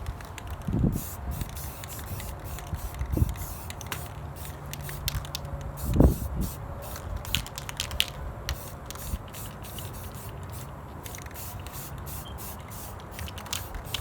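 Aerosol spray-paint can hissing in many short bursts. A few dull thumps sound among them, the loudest about six seconds in.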